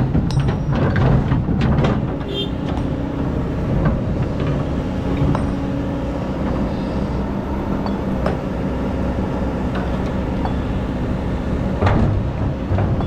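Excavator's diesel engine running steadily under load while it digs sand, with a burst of sharp knocks and clanks in the first couple of seconds and again near the end.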